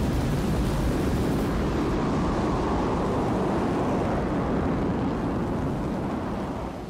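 A steady rumbling roar with no clear pitch. Its hiss drops away after about a second and a half, and it slowly fades near the end.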